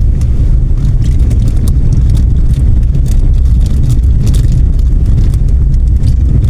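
Car driving along a road, heard from inside: a loud, steady low rumble of road and wind noise with scattered short clicks and knocks.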